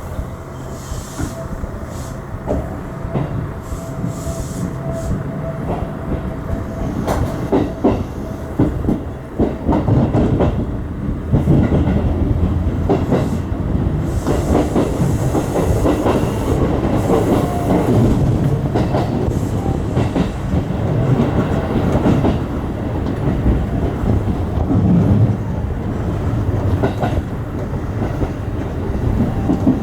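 Seibu Tamagawa Line electric train running, its wheels clicking over rail joints, getting louder about ten seconds in.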